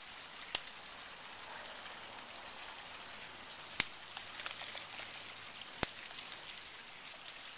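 Steady outdoor hiss with a few scattered sharp clicks or snaps, the loudest about four and six seconds in.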